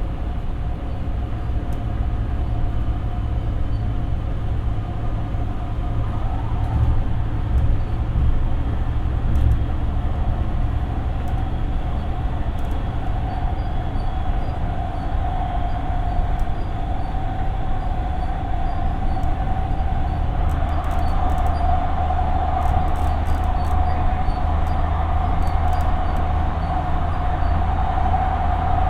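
Siemens P2000 light rail car running along the track, heard from inside: a steady low rumble of wheels on rail with a steady whine that grows louder past the middle.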